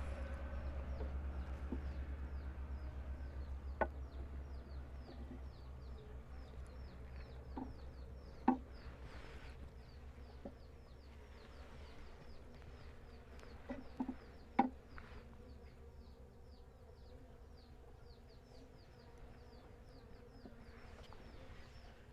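Bees buzzing around a hive, with a rapid high chirping that repeats several times a second and a few sharp knocks.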